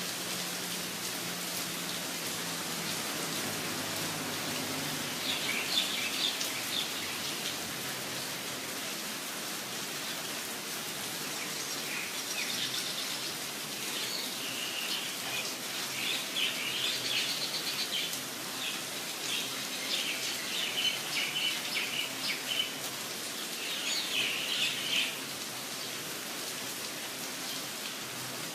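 Steady rain falling, with a bird singing bursts of high chirping calls over it through the middle of the stretch, stopping a few seconds before the end.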